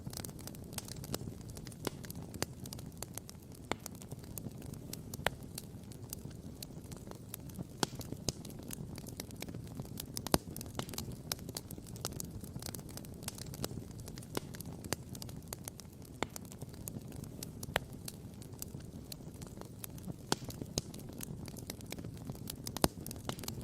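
Wood campfire burning, with frequent irregular crackles and sharp pops, a few standing out louder, over a low steady rumble.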